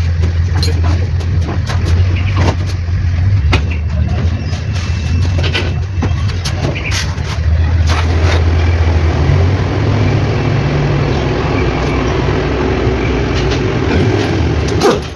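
Mitsubishi 4M40 four-cylinder diesel engine running steadily, with sharp clicks and ticks scattered over it.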